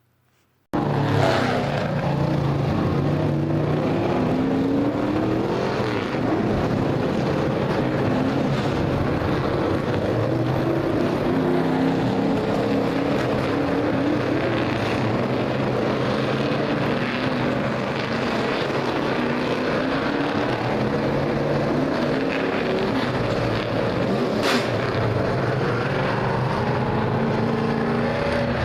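Several Bandolero race car engines running on the track, their pitches rising and falling as they lap. The sound starts abruptly under a second in, and there is a single sharp click near the end.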